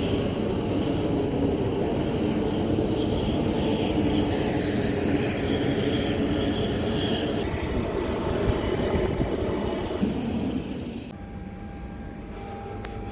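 A steady mechanical rumble and whir. About eleven seconds in it cuts off abruptly to a much quieter hum with a faint steady tone.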